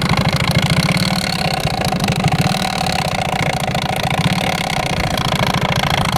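Motorcycle engine running with a strange, rough note, a rapid, even low pulsing. The rider suspects his jacket's drawstring got sucked into the bike.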